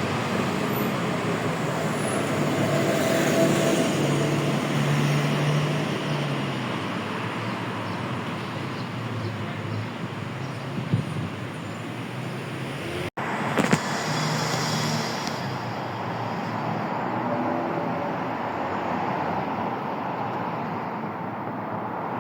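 City street traffic: cars passing and engines running in a steady wash of road noise, broken by a sudden cut about halfway through.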